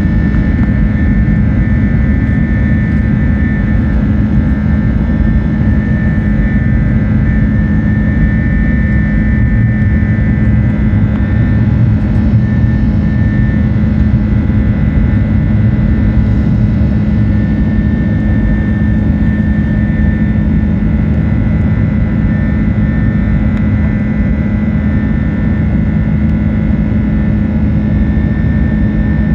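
Steady jet cabin drone inside an Airbus A330-200: engine and airflow roar with a constant low hum and a faint high tone, unchanging throughout.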